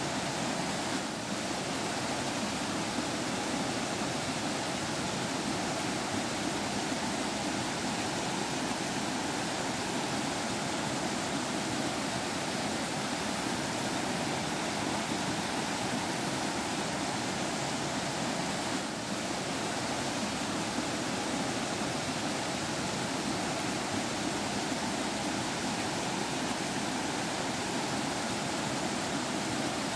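Forest stream water flowing steadily, a continuous babbling rush, with two brief slight dips in level.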